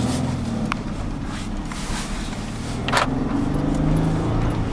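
Jeep Wrangler's engine running under way, its pitch rising and falling a little, over steady tyre and road noise. A sharp click about three seconds in.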